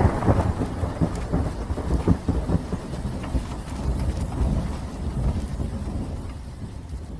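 Thunderstorm sound effect: rolling thunder rumbling over steady rain, fading out near the end.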